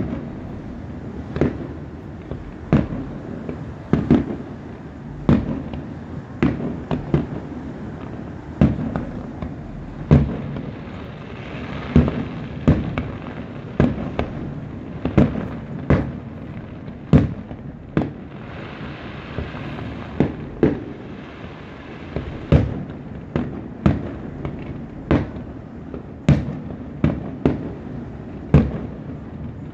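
Aerial fireworks shells bursting in a steady string of booms, about one a second, each with an echoing tail. Two short stretches of hissing noise come in near the middle.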